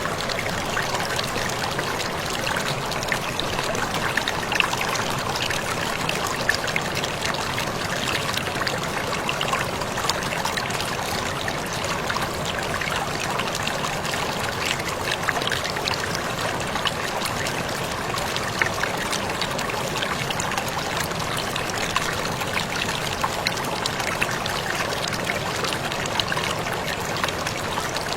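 Small waterfall splashing in a steady rush, with many little drips and splashes scattered through it.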